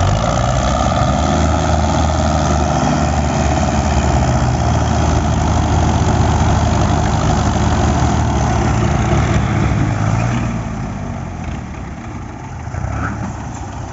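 Diesel tractor engines running hard under load while pulling a heavily loaded trolley. About ten seconds in, the engines ease off and become quieter.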